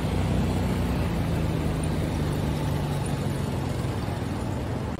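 Small motorcycle engine running as the bike pulls away, a steady low hum that fades slightly after about three seconds.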